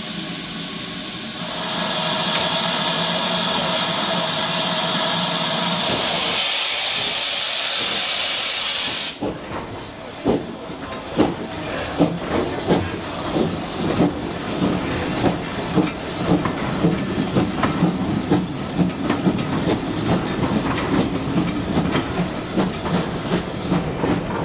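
Steam locomotive letting off a loud hiss of steam, which cuts off suddenly about nine seconds in. After that the train's wheels click over the rail joints, the clicks coming more and more often as it gathers speed.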